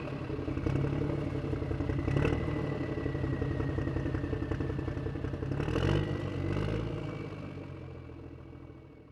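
A motor vehicle's engine driving off: it runs steadily with a brief rise in revs about six seconds in, then fades away into the distance.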